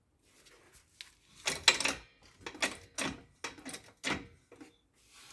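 Irregular bursts of scraping and clattering from handling metal parts or tools, about half a dozen short rough noises over a few seconds.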